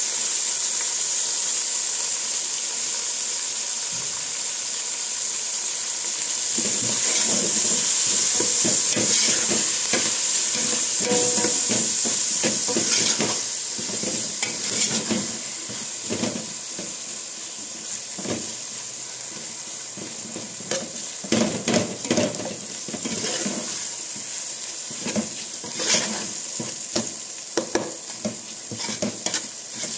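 Sliced onions and raisins sizzling in oil in a large aluminium pot, a steady frying hiss. From about a fifth of the way in, a spatula stirs them, scraping and knocking against the pot in quick, uneven strokes.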